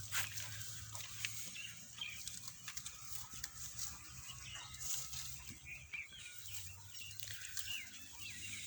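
Farmyard ambience of birds chirping with many short calls, scattered knocks, and a steady low hum.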